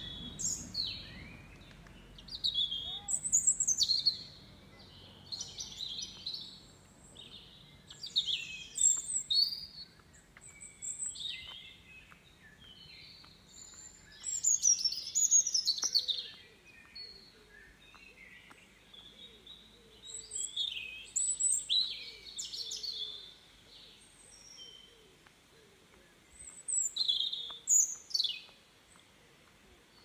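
Songbirds calling, with bursts of quick, high, sweeping chirps every few seconds.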